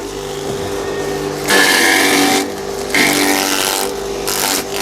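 Small electric grass chopper running with a steady motor hum, breaking into loud rasping bursts about a second and a half in, again at three seconds and briefly near the end as a stalk of odot (dwarf elephant) grass is fed in and shredded by its blades.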